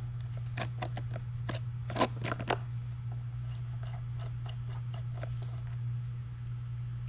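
Scattered clicks and light knocks of flight fins and their bolts being handled and set onto a Onewheel foot pad, busiest in the first two and a half seconds and fainter afterwards, over a steady low hum.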